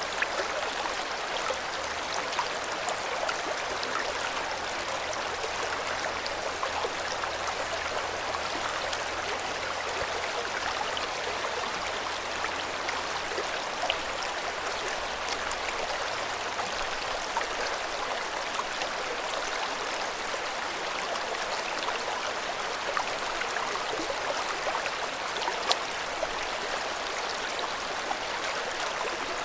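River water flowing steadily, with occasional brief splashes.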